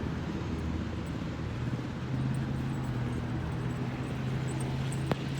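A steady low engine drone that grows stronger about two seconds in, with one sharp click near the end.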